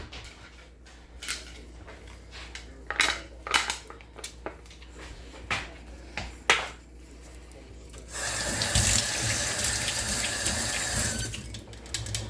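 Kitchen tap running into a sink for about three seconds near the end, after several seconds of scattered sharp knocks and scrapes from utensils.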